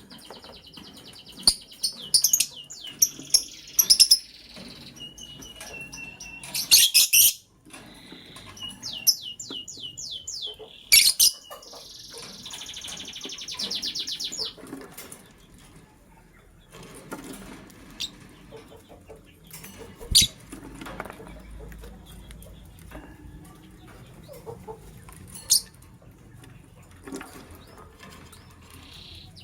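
Lovebirds chirping: rapid buzzy high trills and sharp squawks in bursts through the first half, with a few loud sudden bursts, then scattered single chirps and clicks.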